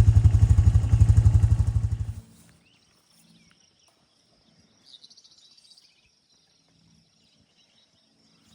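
A small vehicle engine, such as an ATV or farm utility vehicle, idling with an even pulse, then shut off about two seconds in. Afterward a bird gives a short chirping call over a faint steady high-pitched hum from insects.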